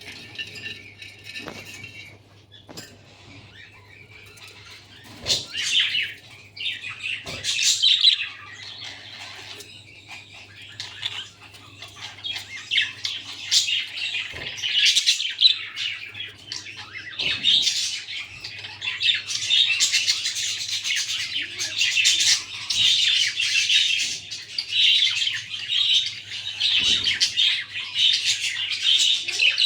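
Budgerigars chirping and chattering in quick, scratchy calls, sparse at first and then near-continuous from about a third of the way in, with a few soft knocks and a faint steady low hum underneath.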